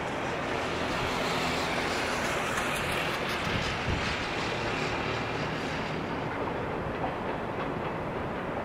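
A train running along the tracks: a steady rolling noise from the wheels and rails, with faint ticks in the middle.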